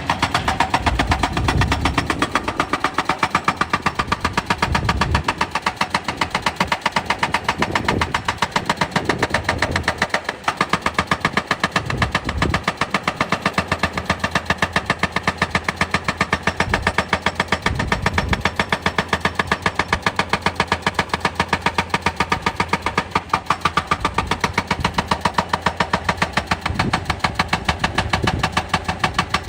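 Excavator at work: its diesel engine running with a fast, regular pounding, a few beats a second, that continues without a break.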